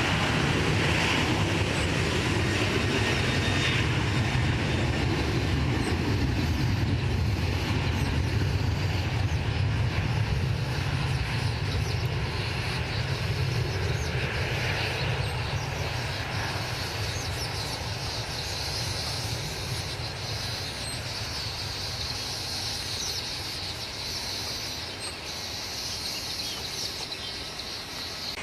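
Aircraft engine noise from an airliner on the runway: a steady low rumble with a hiss above it, slowly fading as the aircraft moves away.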